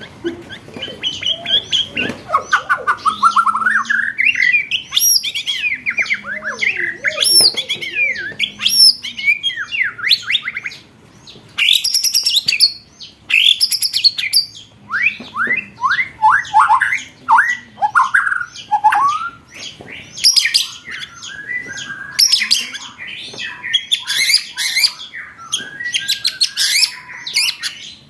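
Songbird singing a loud, fast, varied song of rising and falling whistles, harsh notes and rapid runs of repeated notes, the 'roll tembak' volleys used as a master recording for training competition songbirds. The song pauses briefly a little before halfway.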